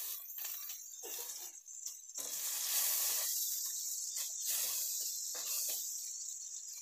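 Food sizzling in hot oil in a steel kadai, a steady hiss, with a metal spatula scraping against the pan now and then.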